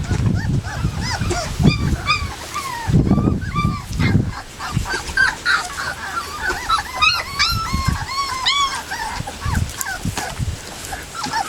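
Young puppies, about three and a half weeks old, whimpering and yipping: many short, high cries that rise and fall, often overlapping, coming thicker in the second half. Low rumbling sits under the first few seconds.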